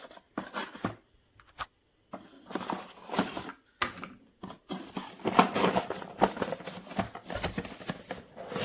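Toy packaging being handled and opened: irregular rustling, scraping and crinkling in short bursts with brief pauses, busiest about two thirds of the way through.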